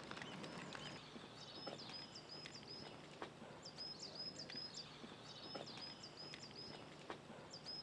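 Faint outdoor ambience: a small bird singing short bursts of rapid high chirps, repeated every second or two, over a low steady hum, with a few faint knocks.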